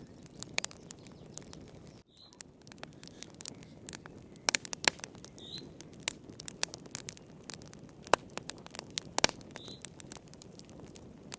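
Wood fire crackling in a fireplace: irregular sharp pops and snaps over a low, steady hiss of the flames. Three brief high chirps come a few seconds apart.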